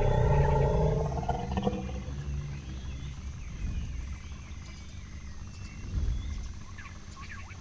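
Sound-designed dinosaur roar: a deep pitched growl, loudest at the start and fading away over about two seconds, then a low rumble with a few faint short high calls near the end.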